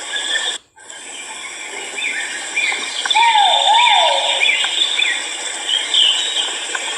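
Great argus pheasant calls: a two-note falling 'kau-wau' hoot near the start and again about three seconds in, with a quick series of shorter, higher notes between them. A steady high insect-like drone runs underneath, and the sound cuts out for a moment under a second in.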